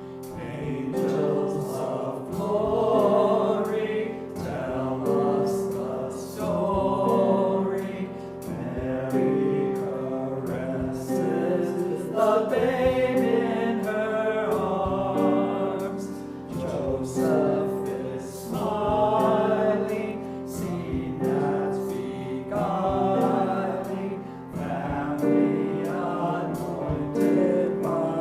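Voices singing a hymn together over sustained instrumental accompaniment.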